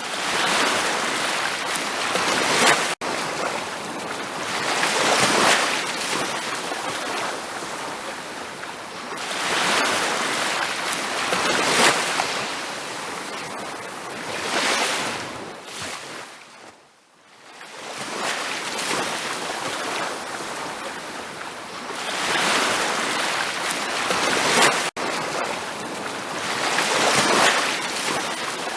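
Ocean waves washing onto a beach, the surf swelling and ebbing every four to five seconds. About halfway through it fades briefly almost to silence, and there are two split-second dropouts.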